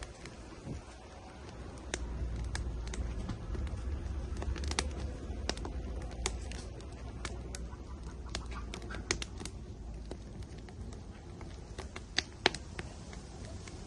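Wood fire burning in an outdoor grill, crackling with sharp, irregular pops and snaps over a low rumble that comes up about two seconds in.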